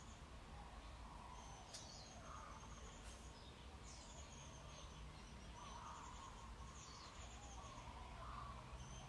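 Faint birds chirping: scattered short calls over a quiet background.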